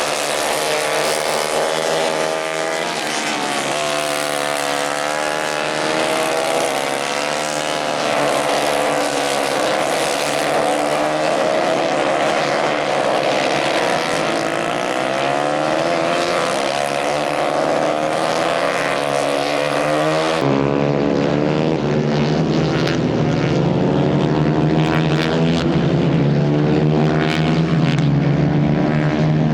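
Several racing kart engines running at high revs, their pitch rising and falling as the karts accelerate and lift off. About 20 seconds in the sound changes abruptly to a lower, steadier engine note.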